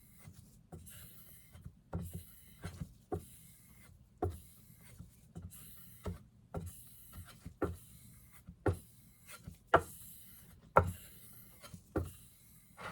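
Chef's knife being stropped: the blade rubs along the strop with a sharp tap roughly once a second as each stroke lands or the blade is turned over.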